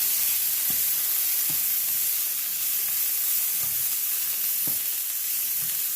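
Asparagus frying in olive oil in a pan over medium-high heat: a steady sizzle, with a few faint knocks as it is stirred.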